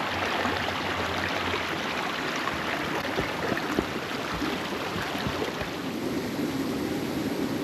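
Mountain stream rushing over rocks, a steady hiss of running water.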